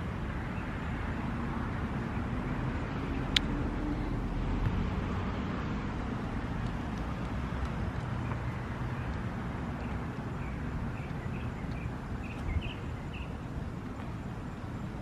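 Outdoor ambience of steady traffic noise, swelling briefly a few seconds in. A single sharp click sounds about three seconds in, and birds chirp in short calls through the second half.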